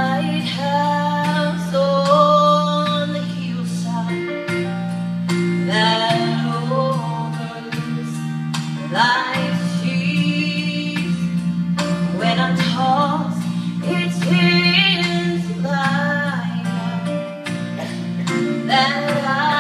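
A woman singing a song with guitar accompaniment, her voice holding long notes over steady low chords.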